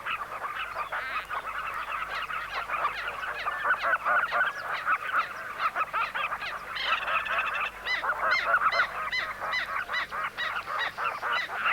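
A large flock of southern carmine bee-eaters calling all at once, a dense chorus of many short calls overlapping.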